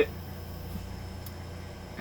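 Steady low background hum with faint room noise between sentences, and one faint tick about a second in.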